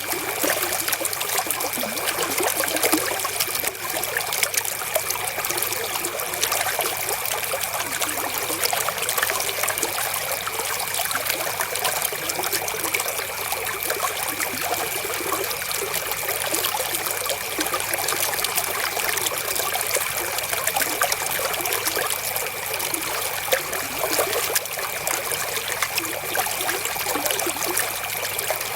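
River water flowing steadily, a continuous trickling babble of many small splashes.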